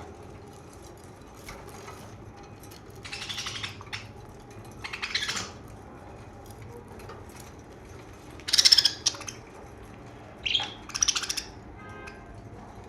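Budgerigars chirping and chattering in short bursts, about five of them, the loudest about two-thirds of the way through.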